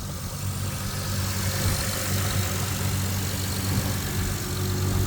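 2005 Acura TL's 3.2-litre V6 engine idling steadily.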